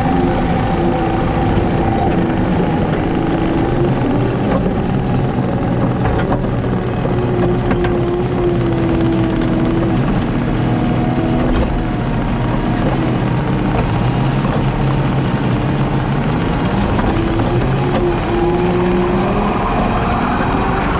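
JCB teleskid skid steer's diesel engine running steadily under load while it drives a 7-foot Jenkins bush hog rotary cutter. The engine note sags in pitch around the middle and climbs again near the end as the load changes.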